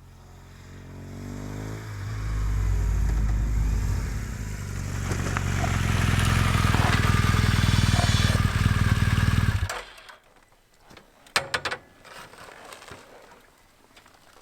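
Motorcycle engine, a BMW R1200 GSA's boxer twin, rising in pitch over the first couple of seconds, then running loud and steady before it cuts off suddenly about ten seconds in. A few faint knocks follow.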